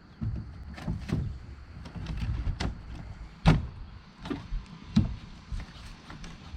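Irregular sharp knocks and thumps, about half a dozen, the loudest about three and a half and five seconds in, over a steady low rumble.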